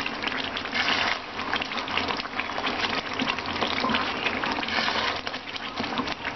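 Thick chicken gravy sizzling and bubbling in oil in a kadhai while a wooden spatula stirs it, a steady crackling hiss: the masala is being fried on medium flame until its oil rises to the surface.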